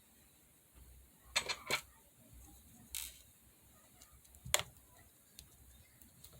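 Clear slime being pressed and worked by hand, giving sharp clicking pops: a quick cluster about a second and a half in, another near three seconds, the loudest at about four and a half seconds, with small ticks between.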